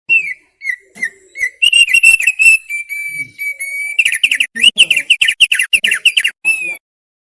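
Thick-billed heleia (opior paruh tebal) singing loudly in clear whistled notes: a few separate notes, a held steady whistle, then a fast run of repeated notes that stops suddenly.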